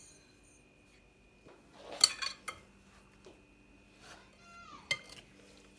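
Kitchen dishes and utensils knocking and clinking: a short cluster of clatters about two seconds in, and a single sharp clink near the end.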